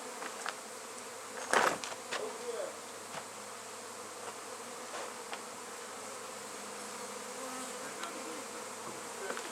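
A colony of honey bees buzzing steadily, disturbed as its comb is cut out and moved into frames. About one and a half seconds in there is a sharp knock from handling, the loudest sound, with a few faint clicks afterwards.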